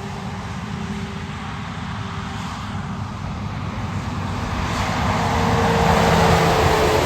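A road vehicle passing close by. A steady low rumble swells about five seconds in with rising tyre noise, and a whine drops slightly in pitch as it goes past.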